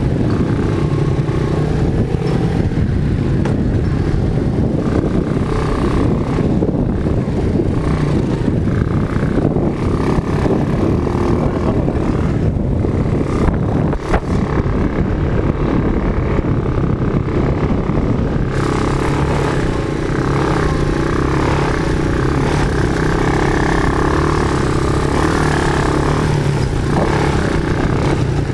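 Quad bike (ATV) engine running steadily under way, its tone shifting slightly about two-thirds of the way through.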